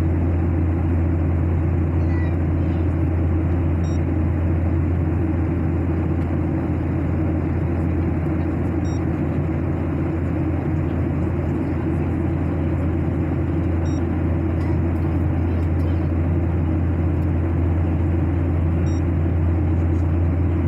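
Steady aircraft cabin noise in flight: a constant low drone from the engines and airflow. A faint short high tick comes about every five seconds.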